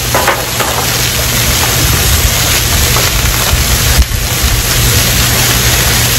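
Rice and vegetables sizzling on a hot flat-top griddle: a steady, dense hiss with a low rumble underneath. There is a single sharp click about four seconds in.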